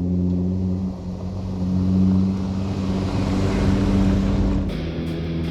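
A vehicle's engine running steadily while driving, with road noise swelling in the middle. Music with guitar cuts in near the end.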